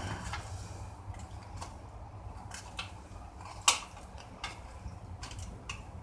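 Light metallic clicks and knocks from handling a camper's small water heater and its parts, with one sharp knock a little past halfway, over a steady low hum.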